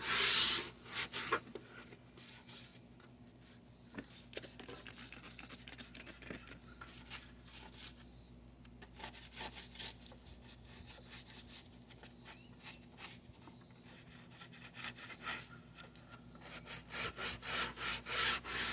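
Repeated scraping and scrubbing strokes on the underside of a Toro 22-inch mower deck, working off built-up debris and rust. There is a loud stroke at the start, softer strokes through the middle, and a stronger run of strokes near the end.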